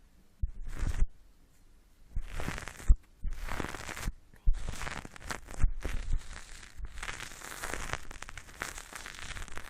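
Close-miked crackling and rubbing, an ASMR trigger worked right at the microphone. It comes in short bursts with brief pauses at first and runs almost without a break from about halfway, with a few sharper crackles.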